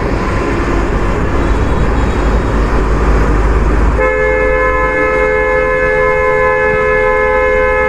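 Road and wind rumble from riding in highway traffic, then a vehicle horn sounded in one long steady blast of about four seconds, starting about halfway through.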